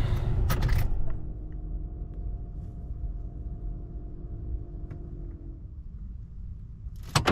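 Car engine switched off, after which a steady low hum keeps running under the hood for several seconds and then stops about five and a half seconds in; the owner doesn't know why it keeps going after shutdown. A brief clatter comes near the end.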